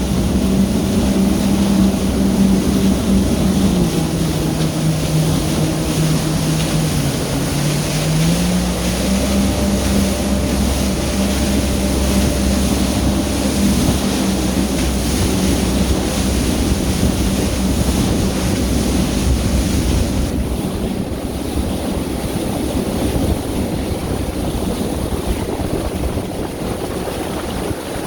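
Yamaha VX Sport personal watercraft engine running under way, with wind noise and water spray around it. The engine pitch drops about 4 seconds in, bottoms out near 7 seconds and climbs back at about 9 seconds, then holds steady. After about 20 seconds the engine sinks under the wind and water noise.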